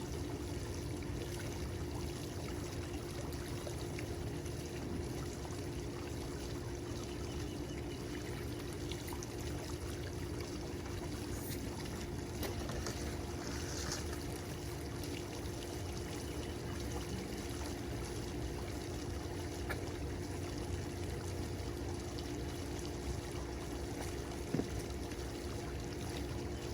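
Water pouring and trickling steadily, with a low steady hum underneath.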